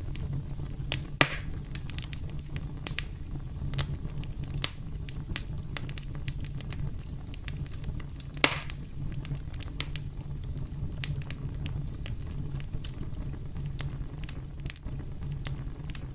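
Campfire crackling: a steady low rumble of burning with scattered sharp pops and snaps, two louder pops about a second in and just past the middle.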